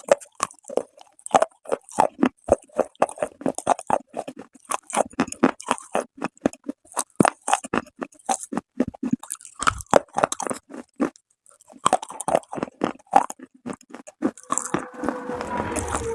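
Close-miked chewing of hard, dry clay: a fast run of sharp crunches and cracks as pieces are bitten and ground between the teeth, with a short pause about eleven seconds in. Near the end the crunching turns into a rougher, more continuous grinding.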